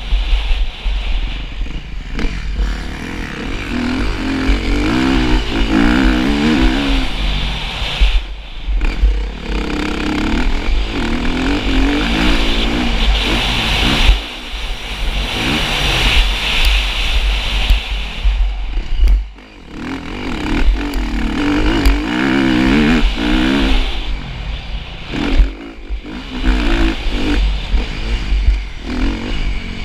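Motocross motorcycle being ridden, its engine revving up and falling back over and over as the throttle opens and closes, easing off briefly several times, over a constant low rumble.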